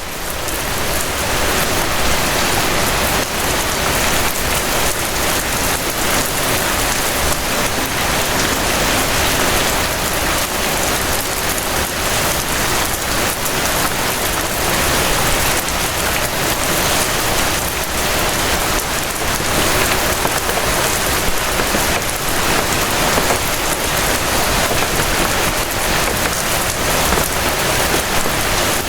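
Gentle rain falling steadily, a dense even hiss of drops, fading in over the first second or two.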